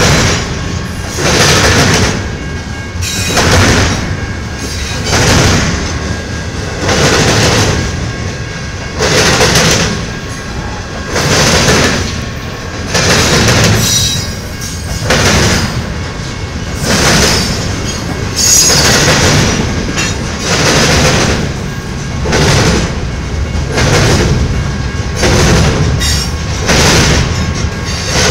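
Double-stack intermodal freight train rolling past, its car wheels clattering over the track in a loud surge about every one and a half to two seconds. Two brief high wheel squeals come about halfway through and a few seconds later.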